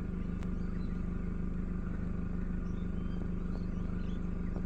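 Steady low hum of an idling vehicle engine, unchanging throughout, with a few faint high chirps over it.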